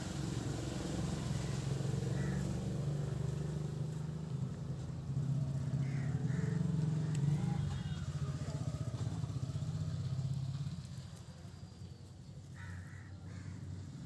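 A motor engine running, a low pulsing hum that grows louder and softer, fading down about eleven seconds in before rising again.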